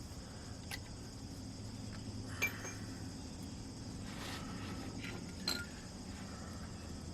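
Steady chirping of crickets in the background, with a few faint clinks of hand tools near the start, about two and a half seconds in, and about five and a half seconds in.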